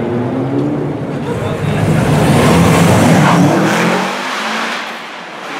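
First-generation Subaru Impreza WRX's turbocharged flat-four engine revving up as the car accelerates hard into a concrete tunnel, rising in pitch and loudest about three seconds in, then fading toward the end.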